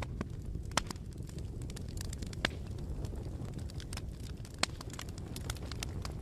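Bonfire burning with a steady low rumble and irregular sharp crackles and pops from the burning wood.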